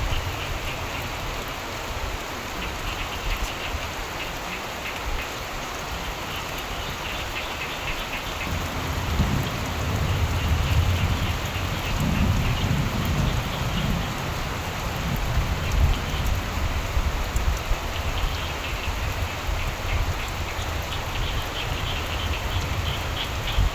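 Steady rain falling, with a low rumble of thunder swelling about a third of the way in and lasting several seconds. Frogs call now and then in fast pulsed trains.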